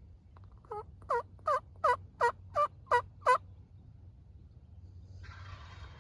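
A series of eight turkey yelps, evenly spaced at about three a second, each note dropping and rising in pitch, the hen yelp that draws a gobbler in. A soft rustle follows near the end.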